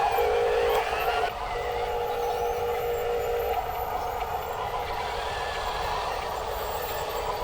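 Radio-controlled toy truck running: a steady mechanical whine that comes in spurts, strongest in the first few seconds, then weaker.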